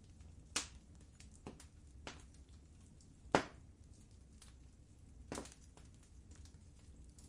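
Wood fire crackling in a fireplace: scattered sharp pops and snaps over a low steady hiss of the flames, with three louder pops about half a second, three and a half and five and a half seconds in.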